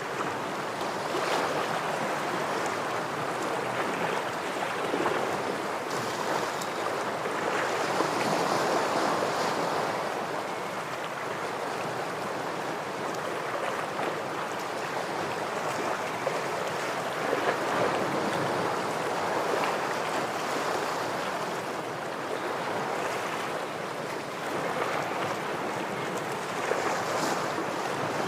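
Ocean waves breaking and washing against shoreline rocks: a continuous surf that swells and recedes every few seconds.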